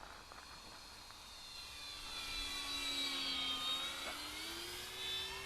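Electric motor and propeller of an E-flite RV-7 RC plane whining in flight, several pitched tones that bend as it goes. It grows louder toward the middle, then eases off.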